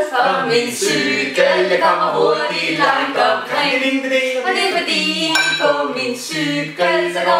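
A group of voices singing unaccompanied, a choir-like piece of held notes.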